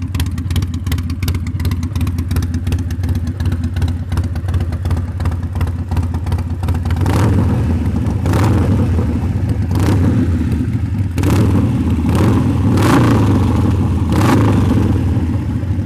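2016 Harley-Davidson Sportster 1200's air-cooled V-twin running through a Vance & Hines aftermarket exhaust, idling steadily and then blipped about six times from around seven seconds in, each rev rising and dropping back to idle.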